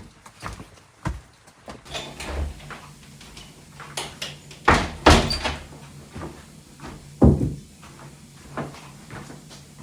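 A string of knocks and clatters, like wooden doors or cupboards being handled, loudest just before and just after five seconds in and again about seven seconds in, over a faint steady low hum.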